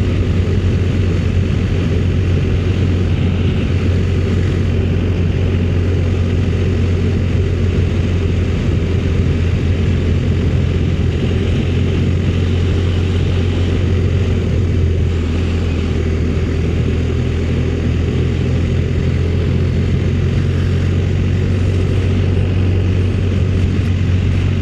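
Motorcycle engine running at a steady cruise, a constant low drone with wind and road noise over it; the engine note shifts slightly about fifteen seconds in.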